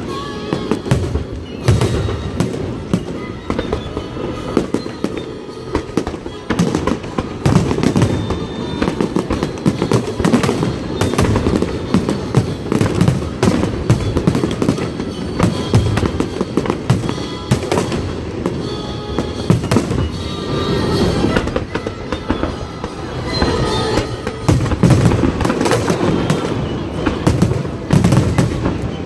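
Fireworks display: shells bursting in rapid, nearly continuous bangs and crackles over a deep rumble, with music playing underneath.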